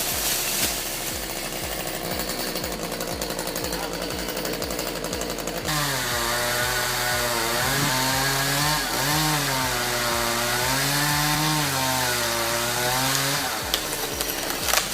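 A steady machine sound with a regular low pulsing, then a sudden change about six seconds in to a two-stroke chainsaw engine revving up and down as the throttle is worked. The chainsaw stops shortly before the end.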